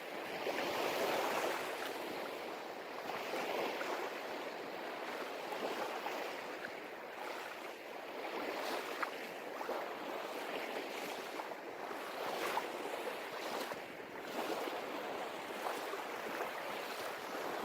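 Sea surf washing onto a beach: a steady rush of breaking waves that swells and eases.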